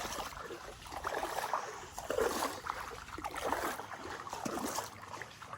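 Water sloshing and trickling, with small irregular splashes.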